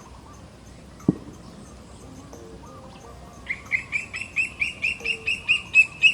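A bird calling a rapid series of about a dozen loud, repeated notes, about four a second, getting louder toward the end. A single sharp knock sounds about a second in.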